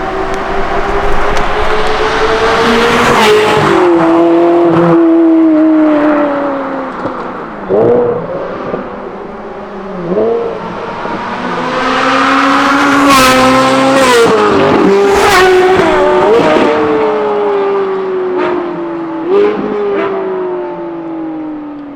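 Straight-piped Ferrari 458 Italia's V8 accelerating hard through the gears, the pitch climbing and then dropping at each shift, with sharp cracks from the exhaust around several of the changes. The pitch falls steadily away near the end.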